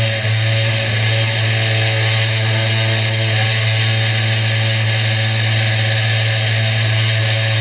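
CNC 3018 desktop router's spindle motor running at a steady speed while milling Finnpappe cardboard: an unchanging hum with a broad hiss over it.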